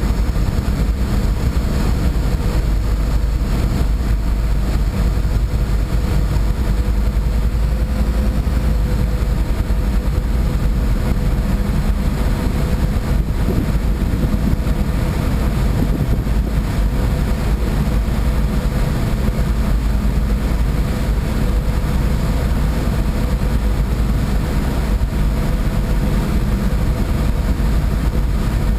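Boat's engine running steadily: a deep, even rumble with a steady hum above it, unchanging throughout.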